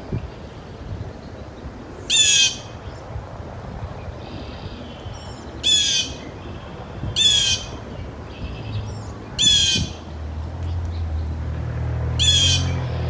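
Steller's jay giving harsh, rasping squawks: five loud calls of about half a second each, spaced a few seconds apart, with fainter higher bird calls in between. A low rumble builds up over the last few seconds.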